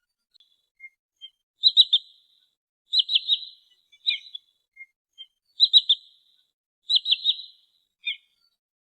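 A sandpiper (trinil sawah) calling, played as a lure recording: four bursts of quick, high three-note calls, coming in two pairs, with short single notes between them.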